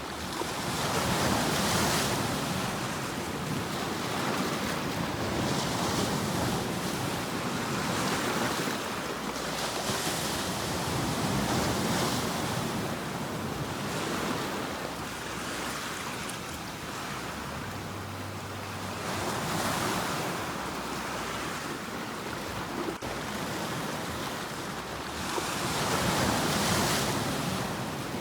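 Ocean waves breaking on a shore: a continuous rush of surf that swells and eases as successive waves come in every few seconds.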